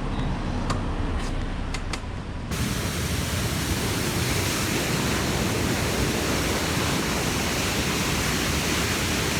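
Steady rushing of a waterfall. It starts with a sudden cut about two and a half seconds in, after a duller stretch of noise with a few sharp clicks.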